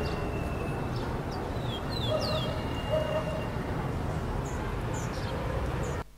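Birds calling, short downward-sliding chirps and a few longer notes, over a steady low rumble of outdoor background noise. The sound cuts off suddenly near the end.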